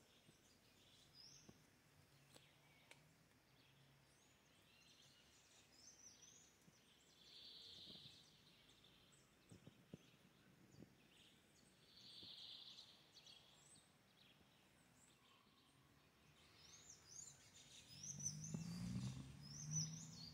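Faint birdsong: scattered short, high chirps and whistles. Near the end come low, muffled bumps and rumbling.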